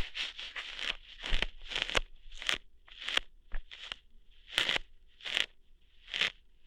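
ASMR ear-hair plucking sounds close to the microphone: a run of short crackling plucks, about two a second.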